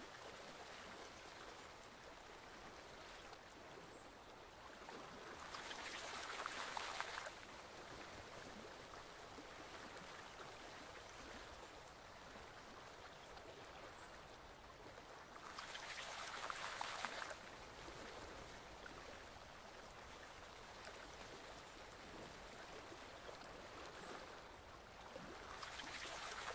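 Forest stream flowing steadily, its rushing swelling louder for a second or two about every ten seconds, three times.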